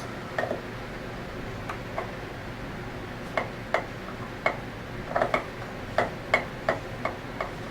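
Irregular light clicks and taps, about a dozen and mostly in the second half, from small parts and tools being handled while the pin crank needle bearings of an Anest Iwata scroll vacuum pump are taken out.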